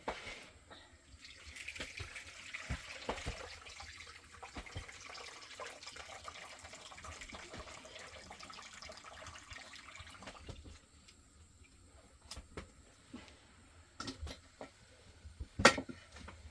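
Water running or pouring for about nine seconds, then a few scattered knocks and one sharp knock near the end.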